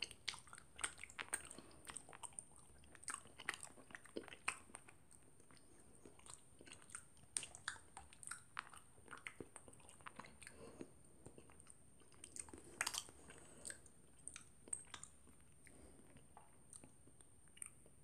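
A person chewing crunchy chocolate cereal in milk: faint, irregular crunches and mouth sounds, with a louder cluster of crunches about 13 seconds in.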